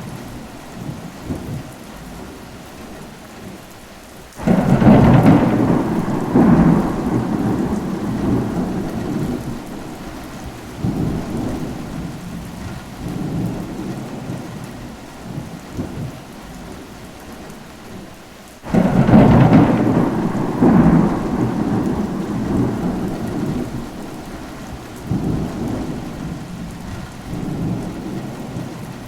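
Steady rain with thunder: two sudden thunderclaps, one about four seconds in and another about two-thirds of the way through. Each is followed by a rolling rumble that dies away over several seconds.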